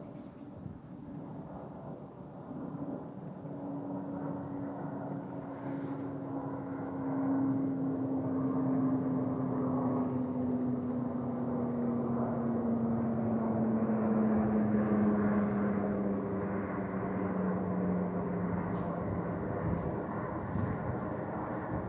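Airbus A321-211 airliner with CFM56 turbofan engines passing on arrival. The engine sound builds louder toward the middle, with a steady tone that glides slowly down in pitch as it goes by.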